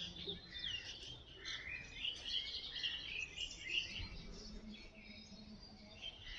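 Several small birds chirping faintly, in short overlapping calls.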